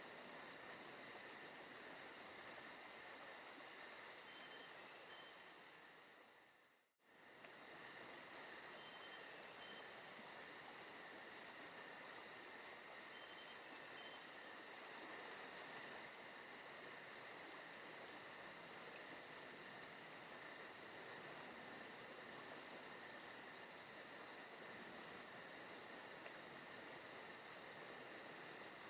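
Recorded forest ambience at low volume: a steady chorus of crickets and other insects trilling. It fades almost to silence about seven seconds in, then comes straight back.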